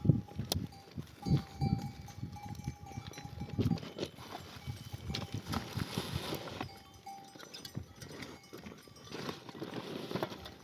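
Livestock neck bells ringing and clinking as a flock of sheep and goats moves, with scattered small knocks, a stretch of rustling noise around the middle and a short animal call near the end.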